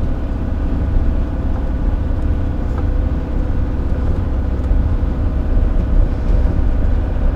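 Hymer motorhome on the move: steady engine drone and low road rumble.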